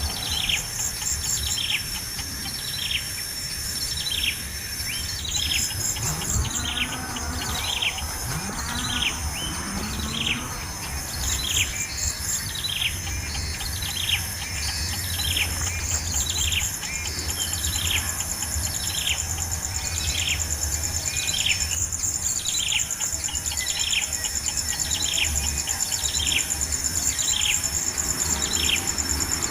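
A bird calling over and over, a short downward-sliding note about once a second, with an insect trilling steadily and high above it.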